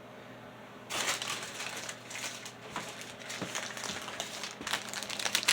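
Crinkling and rustling of kitchen wrapping being handled, starting about a second in and going on in irregular crackles.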